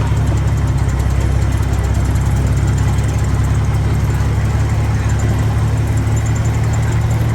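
Heavy diesel engine of earthmoving machinery running steadily at a constant low speed.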